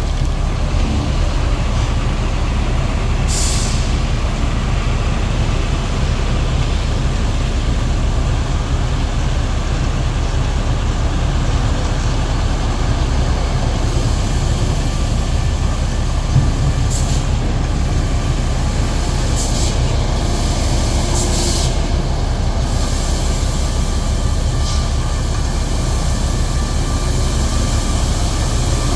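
Heavy diesel trucks running with a steady low rumble, with several short hisses of air brakes releasing.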